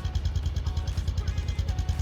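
A brand-new Bajaj Discover 125's single-cylinder four-stroke engine idling steadily, with an even low exhaust beat of about ten pulses a second.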